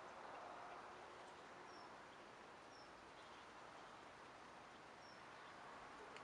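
Near-silent outdoor ambience, a faint even hiss, with three short, high bird chirps spread through it.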